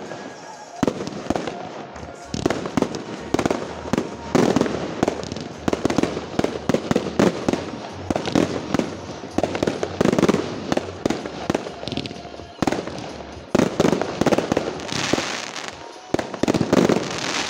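A fireworks display: aerial shells and rising comets going off in rapid bangs and crackling, with louder volleys every couple of seconds.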